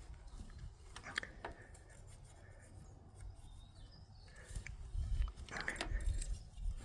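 Hand tools working on the valve train of an Allis-Chalmers 7010 tractor's inline six as a valve's clearance is adjusted: light metallic clicks and rubbing, with a few sharp clicks about a second in. Heavier bumps and handling noise come near the end.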